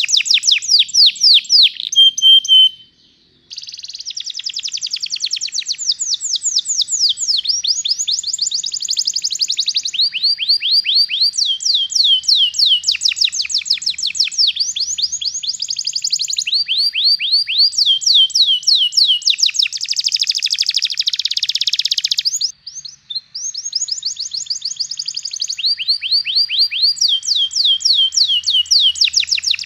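Domestic canary singing a long rolling song: fast trills of rapidly repeated falling notes, switching from one trill to the next every second or two. There are two short pauses, about three seconds in and about three quarters of the way through.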